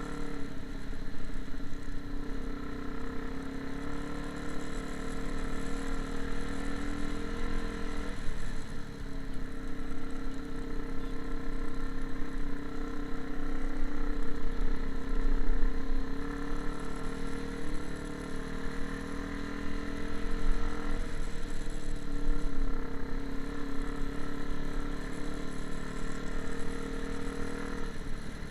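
A motor running steadily at an even pitch, with brief dips about eight and twenty-one seconds in.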